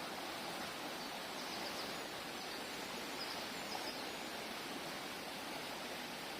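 Mountain stream water rushing steadily over rocks, with two brief sets of faint high chirps about one and a half and three and a half seconds in.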